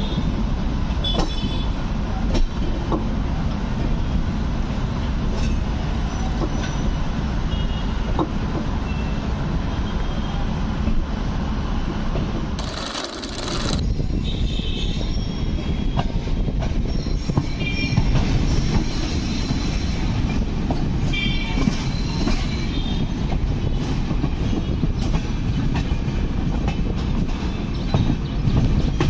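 Indian Railways passenger train running into the station, a steady rumble with the clatter of wheels over rail joints and points. From about halfway through, thin high wheel squeal sounds on and off. A brief hiss comes just before that.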